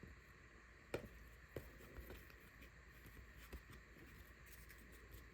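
Near silence broken by a few faint taps and light rustles of trading cards being handled and flipped through, the clearest tap about a second in.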